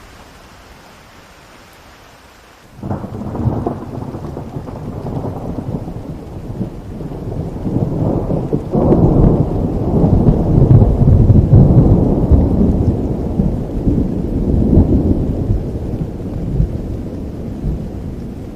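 Steady rain with a thunderclap breaking in suddenly a few seconds in, followed by a long, deep thunder rumble that peaks midway and slowly fades.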